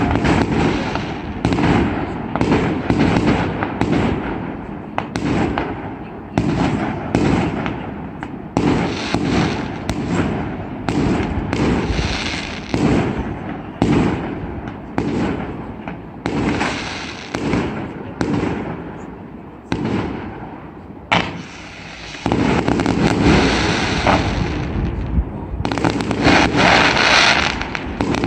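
Fireworks display: a fast run of exploding shells, several bangs a second. About three-quarters of the way through it eases off, one sharp bang goes off, and then a dense, unbroken barrage of bursts follows.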